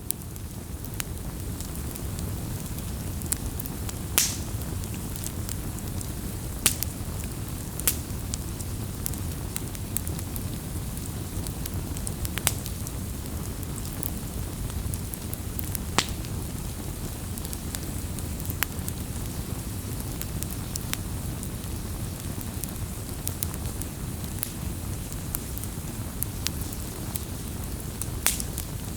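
Wood bonfire crackling: a steady low rumble of burning with scattered sharp pops and snaps, several louder pops standing out through the stretch.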